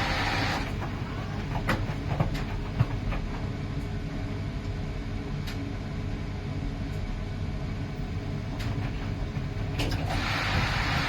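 Miele PW 6080 commercial washing machine running with a steady low rumble. A loud hissing rush cuts off under a second in and comes back near the end. In between, the machine knocks and clicks a few times.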